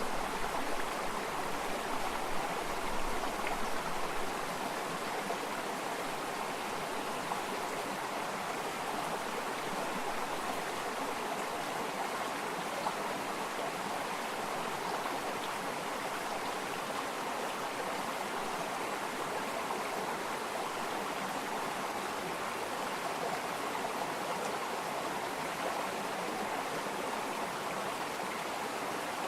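Running water flowing steadily, an even, continuous rushing babble.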